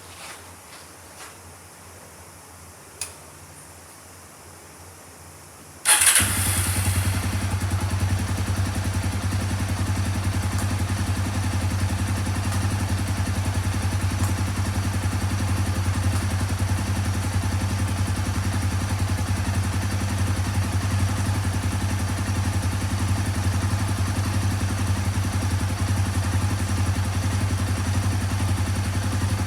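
A Honda GB250 Clubman's single-cylinder four-stroke engine starts about six seconds in, after a few faint clicks, catches at once and then idles steadily.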